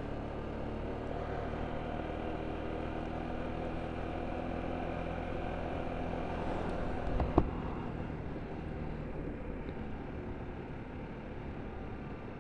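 Motorcycle engine running at a steady cruise with low wind rumble, and a single sharp knock about seven seconds in.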